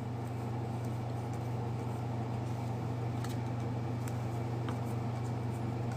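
Steady low background hum, with a few faint clicks and rustles of trading cards being handled.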